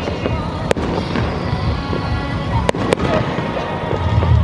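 Fireworks going off: a low continuous rumble of shells bursting, with three sharp cracks, one about a second in and two close together near three seconds, and the rumble swelling near the end. Music plays along.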